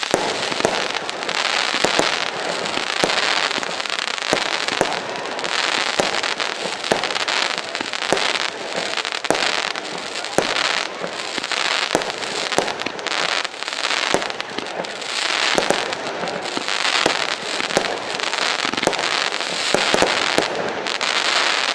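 Funke Snowline 25-shot small-calibre firework battery firing: a continuous run of crackling, hissing shots that swell about once a second, with sharp cracks all through, stopping at the very end.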